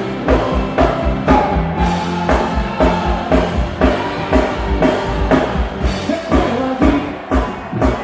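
Live band playing rock-style music: a drum kit keeping a steady kick-drum beat under bass and other instruments.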